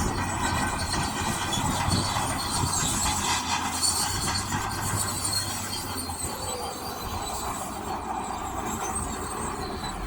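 Shantui DH17C2 crawler bulldozer working: its steel tracks clank and squeak over a steady diesel engine drone.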